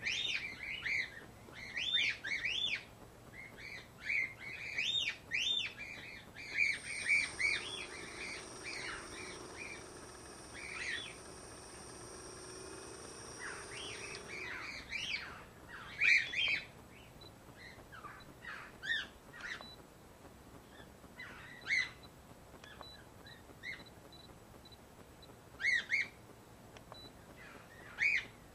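Small birds chirping with many short calls throughout. For about eight seconds in the middle, the tricopter's brushless motors spin on the bench with a steady high whine and a low hum, which rise slightly and then fade out.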